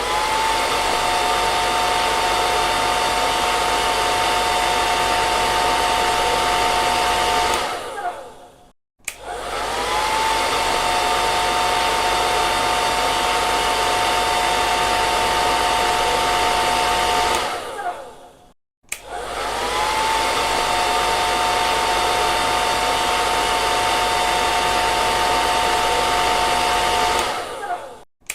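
Electric hair dryer running: its motor whine rises as it starts, settles into a steady whine over rushing air, then winds down to a moment of silence as it switches off, three times over, each run lasting about eight seconds.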